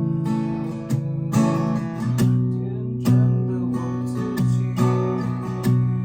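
Acoustic guitar strumming chords, with a sharp strum every half second to a second and the chord changing now and then.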